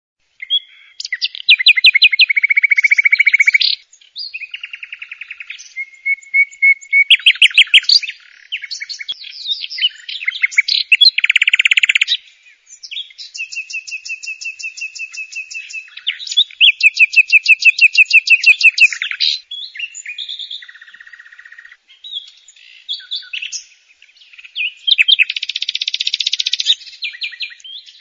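Small birds chirping and twittering in fast trills and runs of quick repeated high notes, in bursts with short pauses, starting about a second in.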